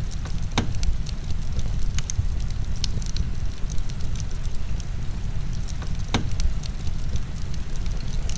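Wood fire crackling, with irregular sharp pops, a few of them loud, over a steady deep rumble of heavy rain.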